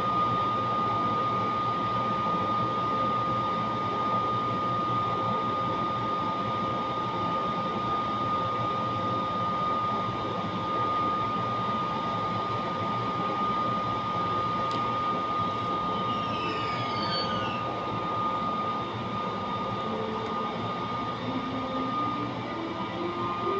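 Electric train at the station with a steady high whine and fan-like hum from its on-board equipment. About twenty seconds in, a rising stepped whine begins, typical of traction motors as an electric train starts to pull away.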